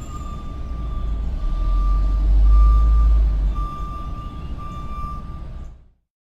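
Tow truck engine running with a low rumble while its reversing alarm beeps, long beeps about once a second. The rumble swells in the middle, and everything cuts off just before the end.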